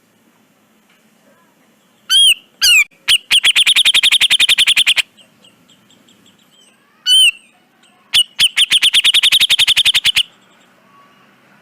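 Cucak jenggot (grey-cheeked bulbul) singing two phrases. Each opens with one or two swooping notes and runs into a rapid trill of about ten notes a second lasting around two seconds.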